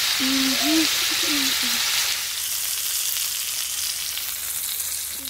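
Chicken shashlik skewers of chicken, onion, capsicum and tomato sizzling in a little oil on a hot tawa griddle. The sizzle eases a little after about two seconds.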